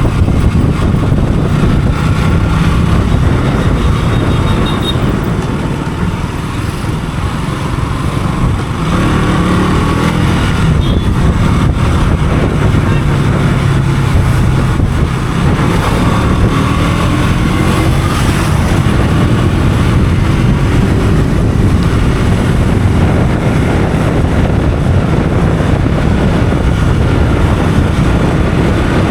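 Motorcycle engine running while riding, with heavy wind noise on the microphone. The engine note rises and falls a couple of times, about ten and sixteen seconds in.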